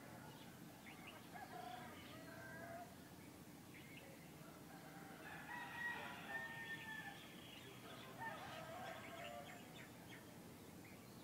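Faint birds calling: scattered short chirps and warbling calls, the loudest and longest about six seconds in, over a low steady hum.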